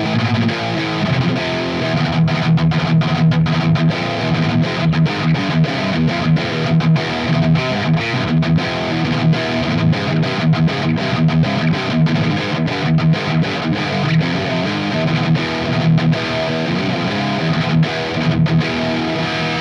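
Distorted electric guitar riffing through an EarthQuaker Devices Plumes overdrive on its third, Tube Screamer-style mode, pushing a Mesa amp and miked at its Celestion Vintage 30 speaker. The tone keeps heavy low mids, and the playing stops abruptly at the very end.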